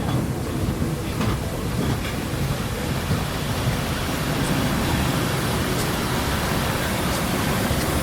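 Train rolling by as Nickel Plate Road 765, a steam locomotive, pushes it in reverse: a steady low rumble of wheels on rail with a few faint clicks.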